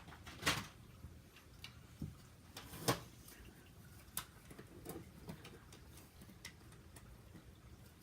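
Toy train track pieces being handled and fitted together: scattered light clicks and knocks, two sharper ones about half a second and three seconds in.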